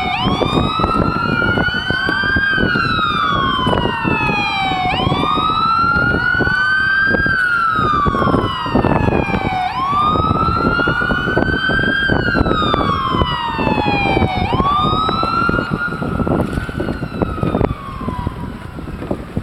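Fire department siren wailing, its pitch rising quickly and falling slowly about every five seconds, over steady low noise.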